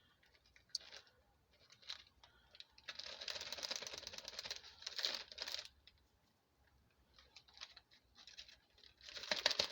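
Small plastic snack baggies rustling and crinkling as grated cheese is packed into them, in two spells, about three seconds in and again near the end, with light clicks and taps between.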